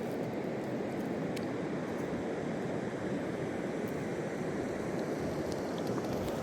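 Fast river water rushing steadily, with a few faint ticks over it.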